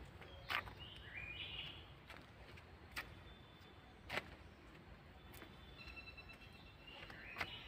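Songbird chirping in short stepped notes, a burst about a second in and another near the end, with a few sharp clicks between them over faint outdoor background noise.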